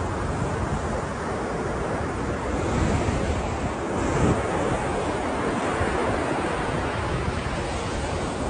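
Ocean waves washing and breaking in a steady rumbling surf, with a slight swell about three to four seconds in.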